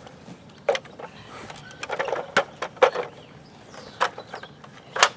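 Irregular clicks and scrapes of a plastic toy excavator scooping dirt, about six sharp knocks spread over a few seconds.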